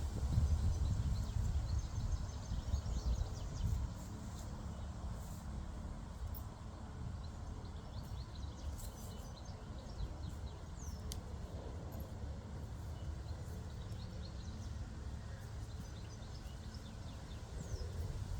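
Outdoor ambience: faint birds chirping with short high calls scattered through, over a steady low rumble.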